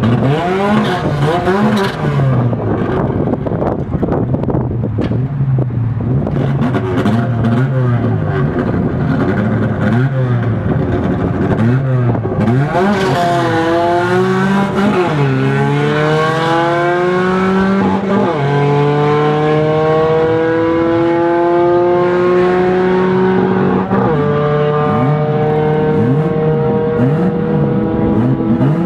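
Two Nissans, a pickup truck and a 240, drag racing side by side. The engines rev up and down at the line, then launch about twelve seconds in and accelerate hard through the pass. Engine pitch climbs steadily and drops sharply at each of four gear changes.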